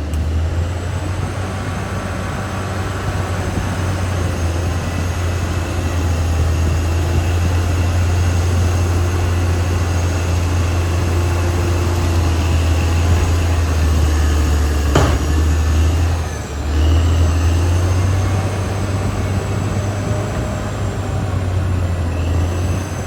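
Caterpillar D6R XL bulldozer's diesel engine running steadily under load, with one sharp knock about two-thirds of the way through and a brief dip in level just after.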